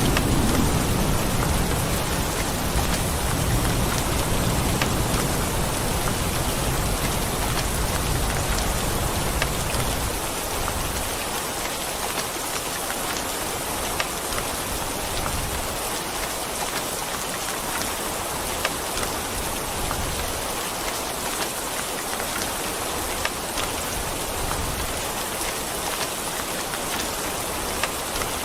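Steady heavy rain, an even hiss with scattered sharp drop ticks. A low thunder rumble runs under it and dies away about ten seconds in.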